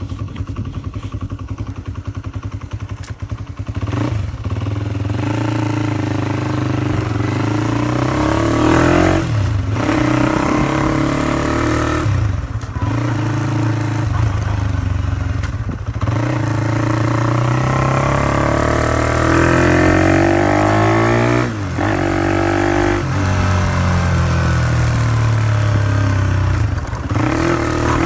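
Honda CY50/CY80 small single-cylinder four-stroke motorcycle engine running through an aftermarket exhaust. It runs steadily at first, then is revved up again and again, its pitch climbing with a brief drop-off several times.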